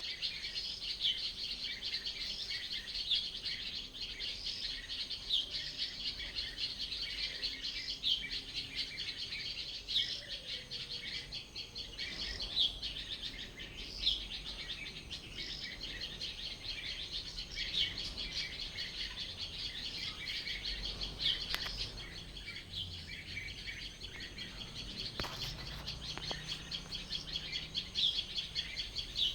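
Many birds chirping and singing at once, a dense unbroken chorus of high chirps with sharper single calls standing out every second or two.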